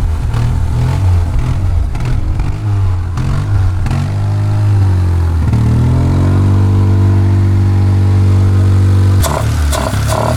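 1991 Honda CRX Si's four-cylinder engine running rough on one of its first starts after sitting over ten years, firing on only two cylinders. The revs are uneven at first, rise and fall, then hold steady, and the sound changes abruptly near the end.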